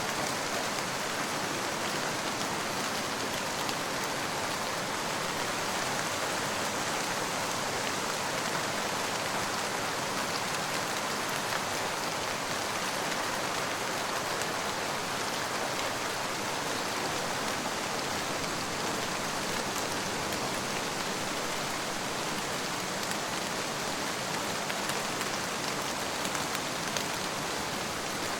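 Steady rain falling, an even hiss that never lets up, with no thunder.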